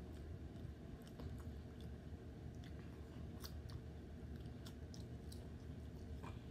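Close-up chewing of fried pork chop, with scattered wet mouth clicks and smacks and fingers picking at the meat, over a faint steady hum.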